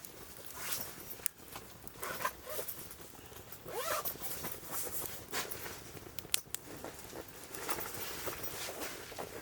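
Wood fire crackling and popping in a wood-burning grill, many sharp irregular snaps. A short rising whine about four seconds in.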